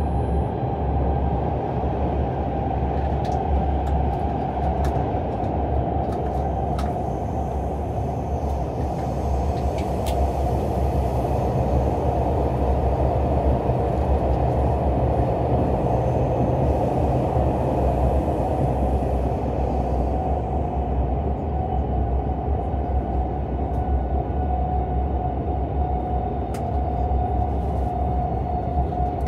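Steady running noise of a KTX high-speed train heard from inside the carriage: a constant low rumble of wheels on rail with a steady hum, and a few faint clicks, mostly in the first ten seconds.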